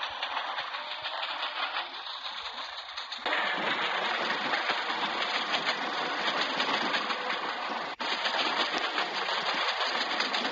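Train running on the rails: a steady, rapid rattling clatter of wheels and carriages that grows suddenly louder about three seconds in.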